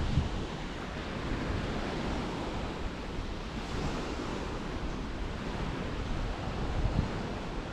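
Steady rushing wind with uneven low rumbling as it buffets the chest-mounted GoPro's microphone.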